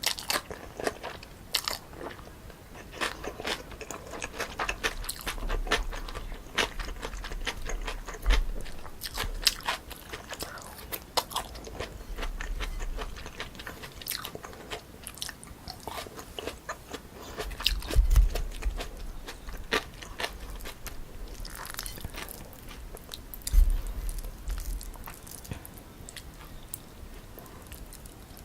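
Close-miked eating of spicy cold chewy noodles (jjolmyeon) with crisp toppings: steady chewing with many short, crisp crunches, and two heavier low thuds past the middle.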